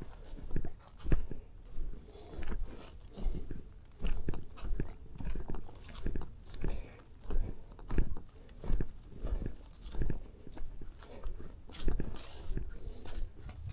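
A person's footsteps along a forest trail, an even walking pace of about three steps every two seconds, each step a short thud with a crunch.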